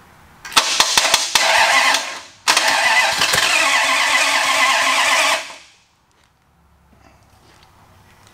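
Chrysler 361 big-block V8 being started: a short burst of cranking and firing, a brief break, then the engine catches and runs loudly for about three seconds before cutting off suddenly.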